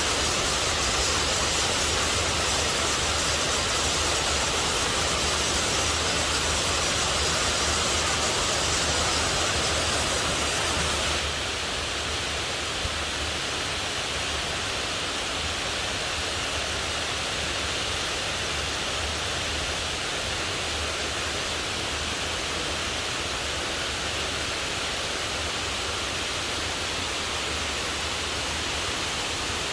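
Heavy rain falling, a steady dense hiss with a low rumble beneath; it drops slightly in level and brightness about eleven seconds in.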